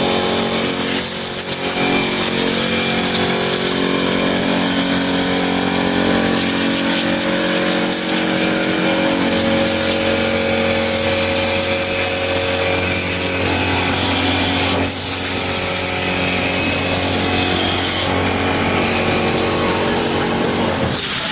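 CNC wood lathe running and cutting a wooden workpiece: a steady hum of several held tones under continuous cutting noise.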